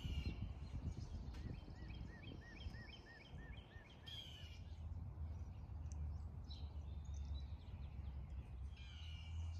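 Birds calling outdoors over a low steady rumble: a songbird repeats a clear whistled note about four times a second for a couple of seconds, and a few harsher calls come near the start, in the middle and near the end.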